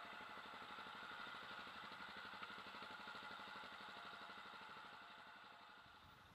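Motorcycle engine idling, faint and steady, with a fast even beat; it fades away near the end.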